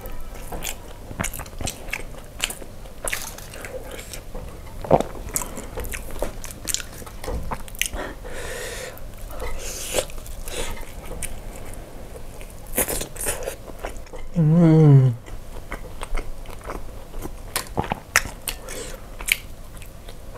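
Close-miked chewing and biting of grilled ribs coated in chilli sambal: many small mouth clicks and crunches. About fourteen and a half seconds in there is a short hummed voice sound, the loudest moment.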